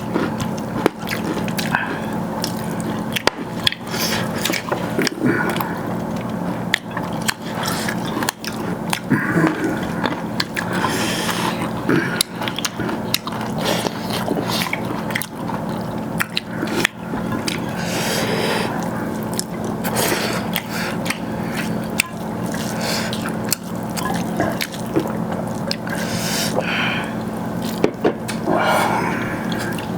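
Close-miked eating: wet chewing and mixing of steamed rice with chicken gravy, with many small smacks and clicks throughout, over a steady low hum.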